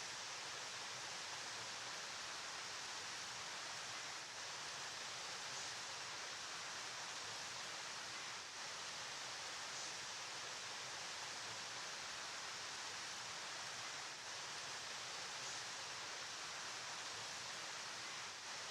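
A flowing river: a steady, even rushing hiss of water with no breaks.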